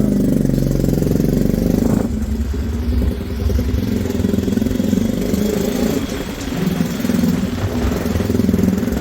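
Bajaj Pulsar NS200's single-cylinder engine running. It idles steadily at first, then about two seconds in the sound changes abruptly to an engine note that rises and falls as it is revved.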